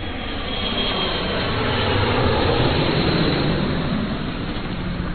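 Jet aircraft passing by, used as an intro sound effect: a loud rushing roar that swells and then fades away near the end.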